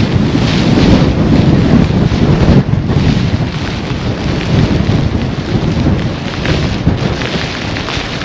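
Blizzard wind buffeting the microphone: a loud, low, gusting noise that dips briefly about three seconds in and then runs a little lower.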